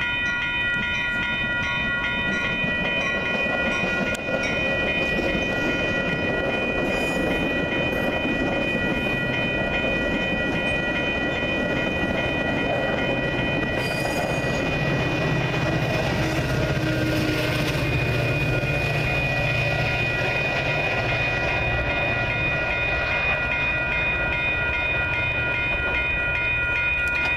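Metra commuter train passing through a grade crossing. The crossing bells ring steadily throughout and the wheels clack over the rails. About halfway through, the EMD F40PH diesel locomotive goes by and a low engine drone swells for several seconds, then fades.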